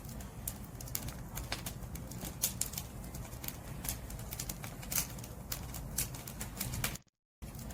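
Firewood burning in an open fire: irregular sharp crackles and pops over a steady low rumble of flame. The sound cuts out completely for a moment about seven seconds in.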